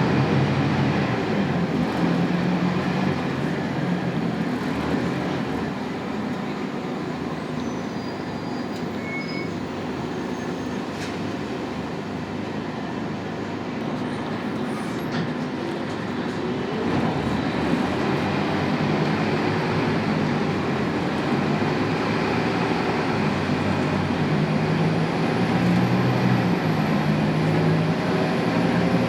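Scania K280UB bus running on its rear-mounted 9-litre inline five-cylinder turbo diesel (DC9) with a ZF EcoLife six-speed automatic, a steady drone with road rumble. It eases off for a stretch in the middle and grows louder again from a little past halfway.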